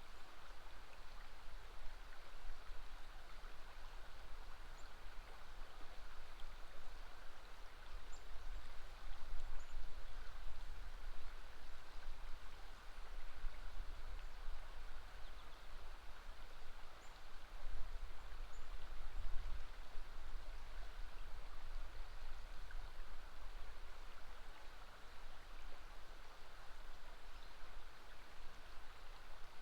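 River water flowing: a steady, even rush, with a few faint high bird chirps now and then.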